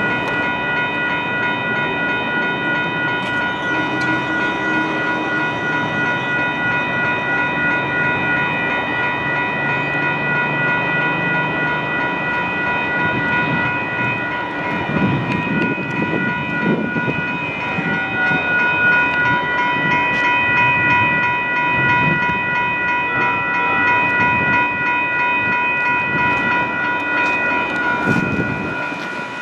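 Grade crossing warning bells ringing on and on while a train rumbles past, with the passing rumble swelling about halfway through and again near the end.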